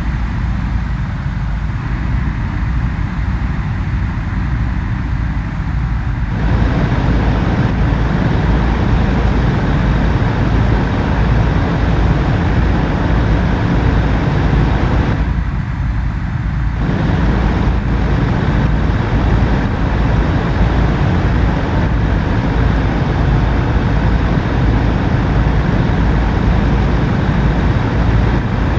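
Truck on the move: a steady, loud low rumble of engine and road noise that grows fuller about six seconds in and dips briefly past the middle.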